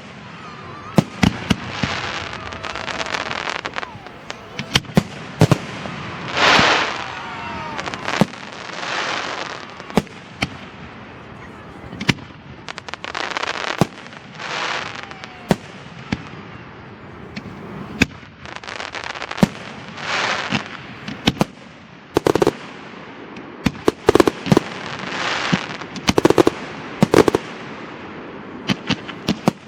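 Aerial fireworks display: many sharp bangs of shells bursting overhead, with repeated swells of crackling hiss between them and a few brief whistling glides.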